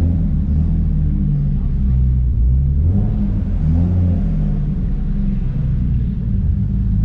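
Single-turbo BMW E36 M3 straight-six idling steadily while it warms up, the idle shifting slightly about three seconds in.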